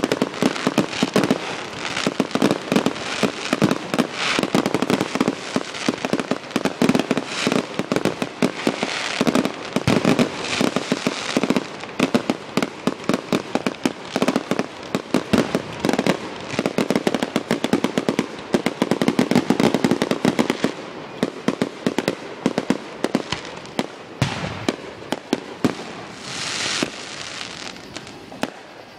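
Fireworks display: a rapid, dense barrage of bangs and crackles from bursting shells, thinning out after about twenty seconds, with a couple of hissing bursts near the end.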